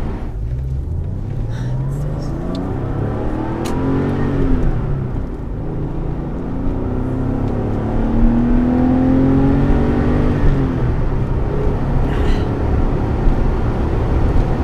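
Porsche 993's air-cooled flat-six engine accelerating through the gears. The pitch rises, drops at a shift about five seconds in, then rises again and drops at the next shift near ten seconds.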